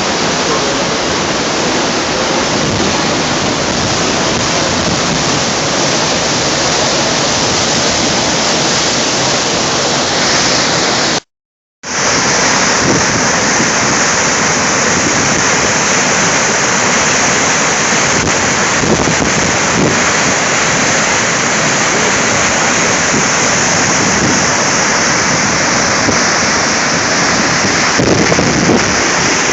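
Sa'ar waterfall in full winter flow: a loud, steady rush of falling water. It cuts out for about half a second a little over a third of the way in, then resumes.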